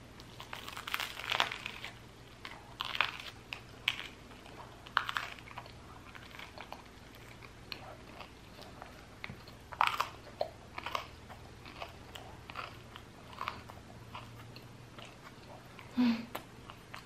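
Close-miked biting and chewing of crusty baguette with cheese: crunchy bites in the first few seconds, then slower chewing with scattered crunches. A short low hum near the end.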